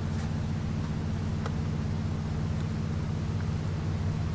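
Passenger train running, a steady low rumble heard from inside the carriage, with a couple of faint plastic clicks as a curry cup's film lid is peeled back.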